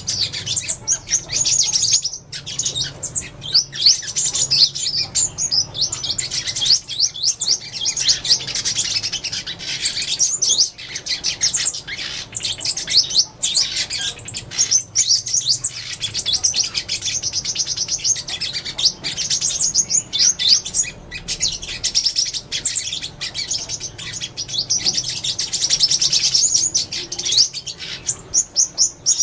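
Sunbird singing: a rapid, almost unbroken stream of high, thin chirps and trills with only brief pauses.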